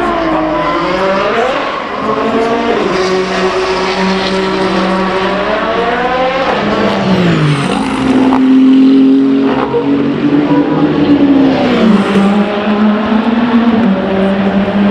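Racing car engines running at full race pace past the trackside, several cars overlapping. Their pitch climbs through the gears and drops sharply as each one passes, with the loudest pass about eight seconds in.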